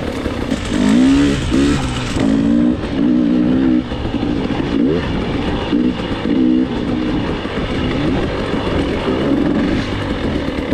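Dirt bike engine revving under a riding load, its pitch climbing and dropping again and again as the throttle is worked through the lap.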